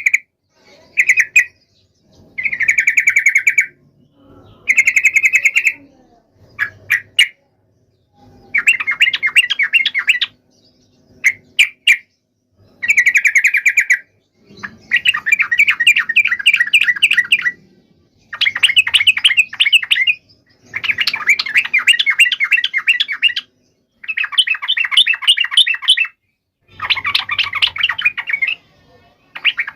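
Yellow-vented bulbuls giving agitated fighting song: loud bursts of fast, chattering trills, each one to two and a half seconds long, repeated about a dozen times with short pauses and a few single chirps between them.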